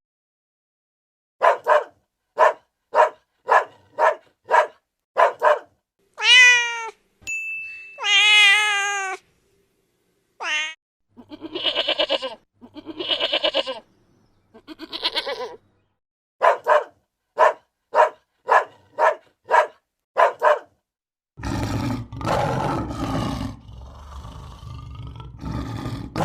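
A string of animal calls from different animals, cut one after another: a run of short repeated calls, a couple of long calls wavering in pitch, more short calls, and a rough, noisier call near the end.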